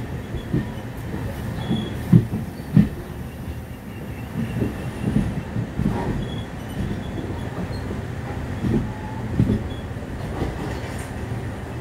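Podhigai Express passenger train running along the track, heard from aboard a coach: a steady low rumble with irregular clattering knocks, a few of them louder.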